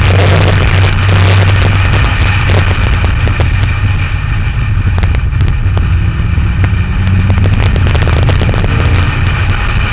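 A car engine running steadily at speed as a low drone, with road and wind noise mixed in.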